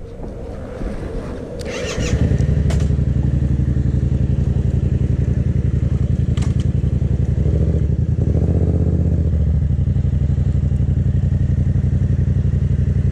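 A Yamaha 700 cc parallel-twin motorcycle engine running steadily. It becomes loud about two seconds in and keeps an even, pulsing beat, with a few sharp clicks.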